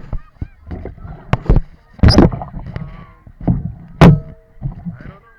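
Kayak paddling: irregular paddle splashes in the water and sharp knocks on the hull, with loud splashes about two seconds in and again about four seconds in.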